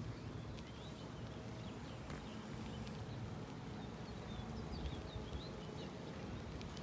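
Steady low rumble of riding a bicycle, with small birds chirping in short calls throughout.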